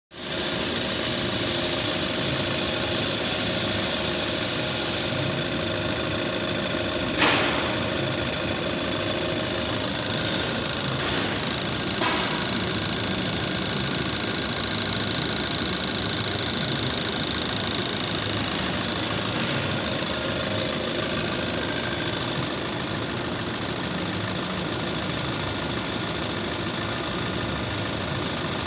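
Hyundai ix35 2.0-litre GDi direct-injection four-cylinder petrol engine idling steadily. It is louder and hissier for the first five seconds, then settles. A few short clicks come over it.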